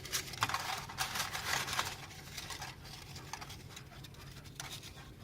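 Soft rustling and small quick clicks, thickest in the first two seconds and then thinning, from a handful of raffle numbers being handled while a rock dove pecks at them.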